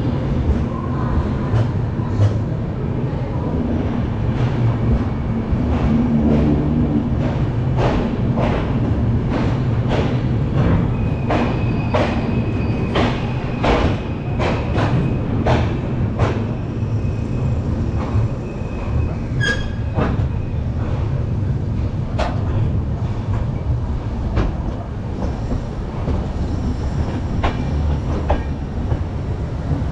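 Passenger train running out of a station, heard from aboard: a steady rumble of the coaches, with a quick run of wheel clicks over rail joints and points in the middle. A thin, steady high wheel squeal runs for several seconds.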